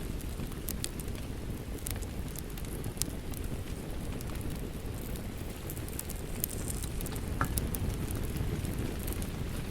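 Wood fire crackling in a fireplace, with scattered sharp pops, over a steady low rush of rain.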